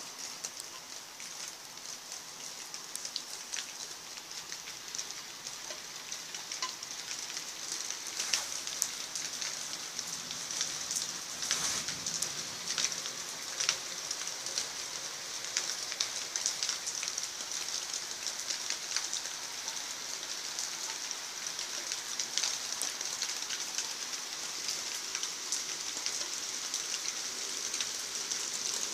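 Heavy rain falling and pattering on surfaces, a steady hiss with many scattered drop ticks.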